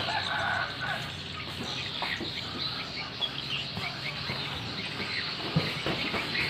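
Small birds chirping over steady background noise.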